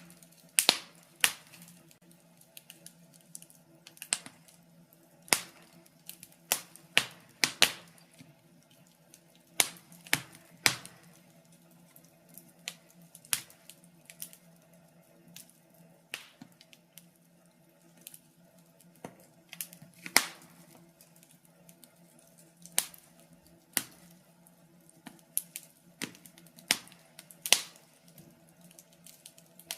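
Wood fire in a fireplace crackling: irregular sharp pops and snaps, sometimes two or three in quick succession, over a faint steady low hum.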